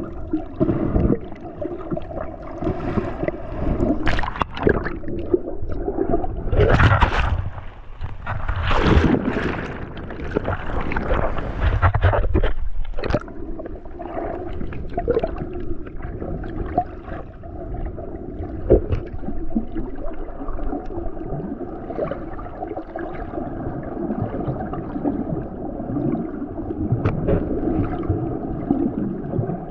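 Sea water sloshing and gurgling around a swimmer and his camera, with a spell of louder splashing in the first half.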